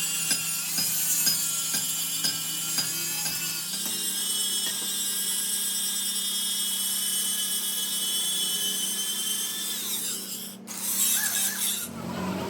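Workshop machinery running steadily with a high-pitched whine over a low hum, with scattered clicks in the first few seconds; the sound changes abruptly about four seconds in and again near the end.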